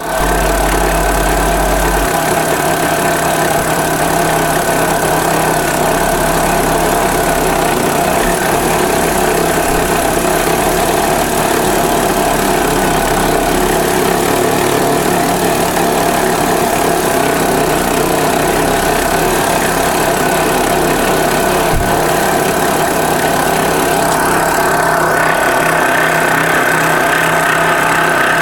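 A 2008 BMW X3 running with a steady, unchanging mechanical drone and a constant whine over it, a sound the owner calls horrible.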